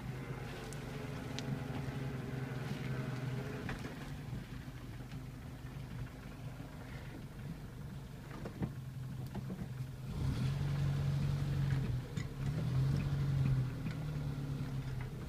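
A Morris 1476 cc four-cylinder sidevalve (flathead) engine running as the car drives slowly along a gravel track, heard from the open driver's window. It is a steady hum that gets louder about ten seconds in, with a few clicks over it.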